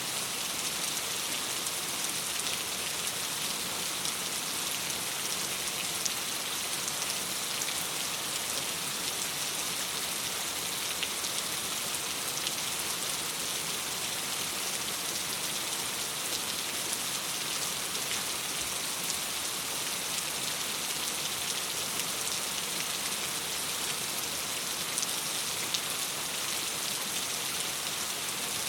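Steady rain falling against a window: an even, dense hiss flecked with many small, sharp drop ticks, unchanging throughout.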